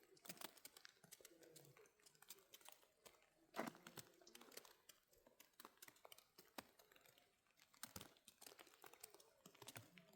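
Faint, irregular clicks and crackles, with one louder knock about three and a half seconds in.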